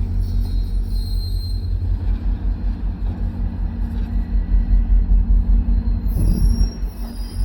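Passenger train at close range: a heavy low rumble with a steady engine drone, and a faint high squeal about a second in.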